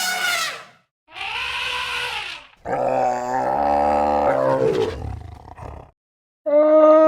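A string of animal calls: four separate pitched, rough cries, the third a long low call of about three seconds.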